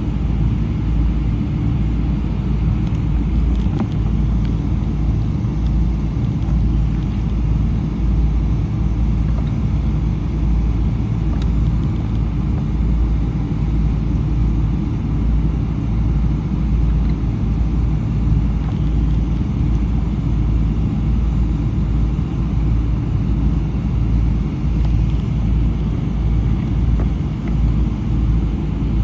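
Steady cabin rumble of a Boeing 777-300 with Rolls-Royce Trent 800 engines, heard inside the passenger cabin: engine and airflow noise running evenly, with no change in pitch or level.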